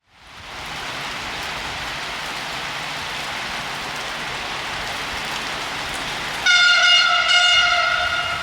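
Taiwan Railway EMU3280 electric train running through the station with a steady rushing noise. About two-thirds of the way in it sounds its horn in one loud, steady blast lasting about two seconds.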